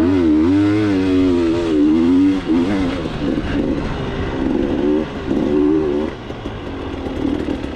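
KTM 300 two-stroke dirt bike engine being ridden, revving up and down as the throttle is opened and rolled off again and again, then running more evenly and a little quieter after about six seconds.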